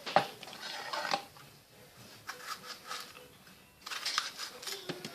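Kitchen knife cutting bell pepper on a cutting board: a sharp knock of the blade on the board just after the start, then scattered clicks and scraping as the pieces are cut and moved.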